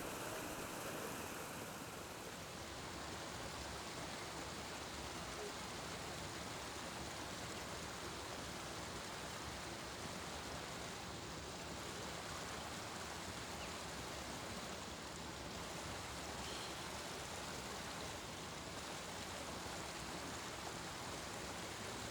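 Steady rushing of running water, an even noise with no distinct events.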